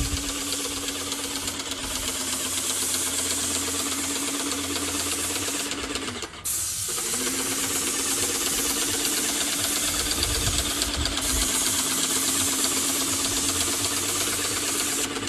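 Airless paint sprayer working: the pump motor hums steadily with a rapid pulse under the hiss of paint spraying from the tip. Both cut out briefly about six seconds in, between passes, then start again.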